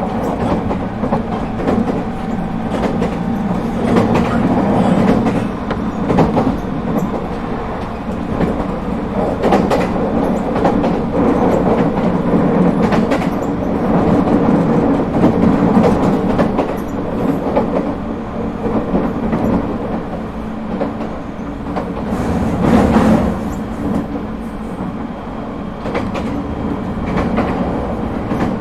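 Echigo TOKImeki Railway ET127-series electric train (Toyo IGBT-VVVF equipment) running between stations: a steady rumble of wheels on rail, with repeated clicks of the wheels over rail joints and a louder stretch about 23 seconds in.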